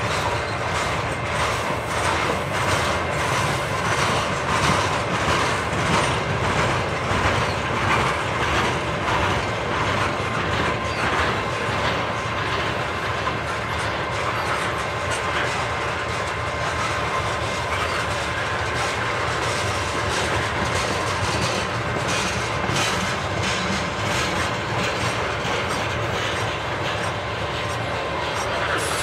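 Double-stack container train's cars rolling past at speed: steel wheels clicking over rail joints in a quick irregular rhythm over a steady rumble, with a faint steady whine above. The clicks come thickest in the first half.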